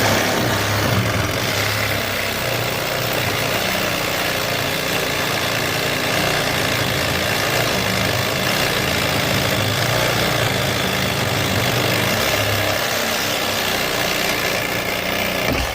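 An engine running steadily at idle, starting and stopping abruptly.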